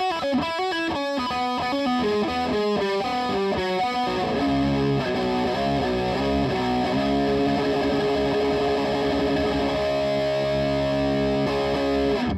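Distorted electric guitar played through a Marshall valve amp: quick picked notes for the first few seconds, then held notes and chords, cut off sharply at the end.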